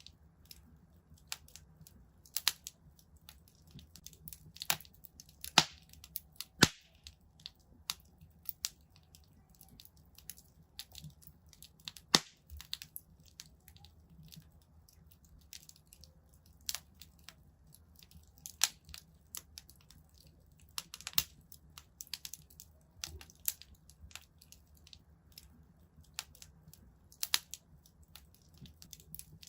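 Wood fire in a fireplace crackling: irregular sharp pops and snaps, a few of them much louder, over a low steady rumble.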